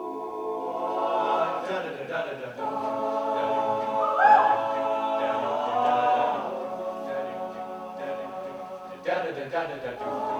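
Student a cappella group singing in close harmony: sustained chords from many voices, with a higher solo voice sliding through a phrase over the top about four seconds in.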